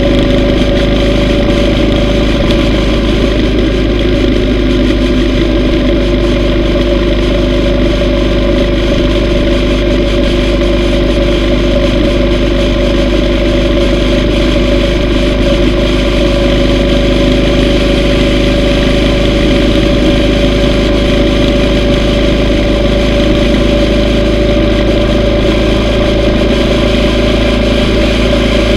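Yamaha V Star 950's V-twin engine running at a steady speed under way, its pitch holding constant with no gear changes, over a steady low rumble.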